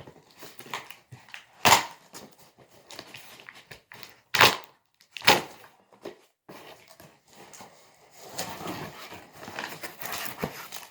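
Packing tape being ripped off a cardboard box: three loud, short rips with quieter scraping and handling between. Softer rustling of cardboard and paper follows near the end.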